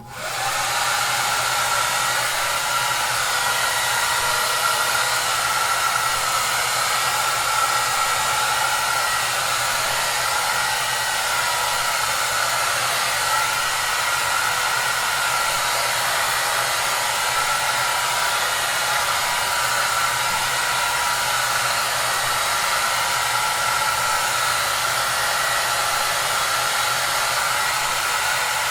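Hair dryer running steadily: an even rush of blown air with a steady whine over it. It comes up quickly out of silence at the very start, then holds unchanged.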